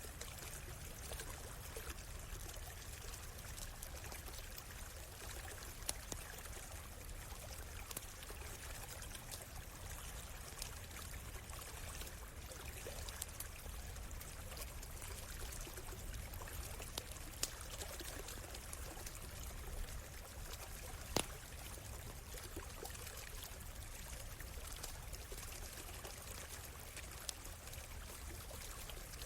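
Small stream running and trickling steadily, with occasional sharp pops from a crackling campfire, the loudest about two-thirds of the way through.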